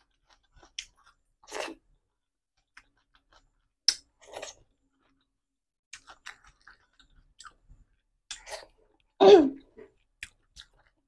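Close-miked chewing of a mouthful of rice and curry, with scattered short wet mouth sounds. About nine seconds in comes one sudden, much louder cough-like burst from the throat.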